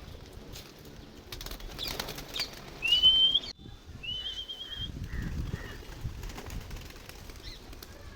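A flock of domestic pigeons flapping and clapping their wings as they leave the loft, with a warbling whistle twice, about three and four seconds in: each one rises, then trills. The whistle is the handler's signal to the birds.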